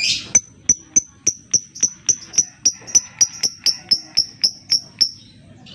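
Lovebird giving a rapid series of short, sharp, high chip calls, about four a second, opened by a brief harsh burst.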